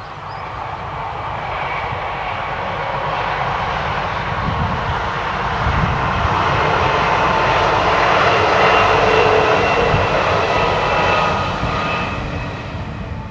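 Bombardier AGC diesel multiple unit (SNCF X 76500) running past, its engines and wheels growing louder to a peak about eight to nine seconds in, then fading.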